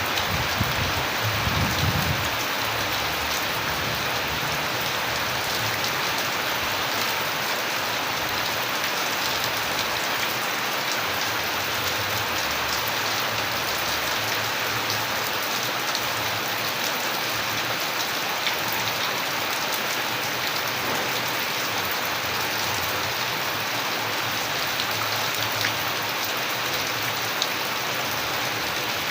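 Steady rain falling, an even hiss with scattered ticks of individual drops. There is a brief low rumble in the first couple of seconds.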